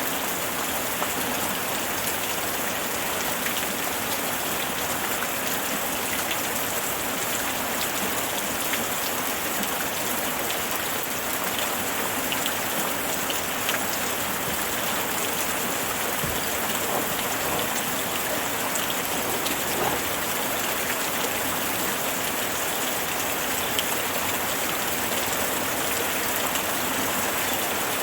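Steady, even rainfall with scattered faint drop ticks.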